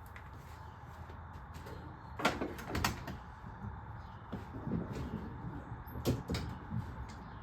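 A car door being opened and handled, with a few sharp clicks and knocks, two close together about two seconds in and another near the end.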